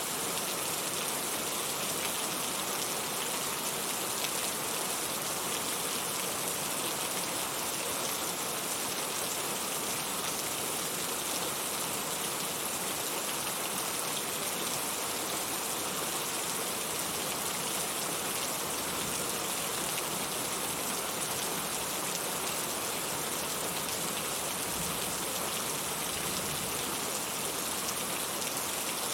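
Heavy, steady rain falling and pattering on surfaces, with no thunder heard.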